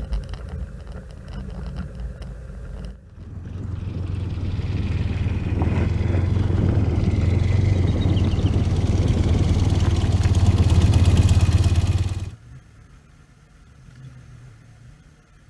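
Motorcycle engine running under way with wind and road noise, growing louder over several seconds and then cutting off suddenly to quiet surroundings about three-quarters of the way through.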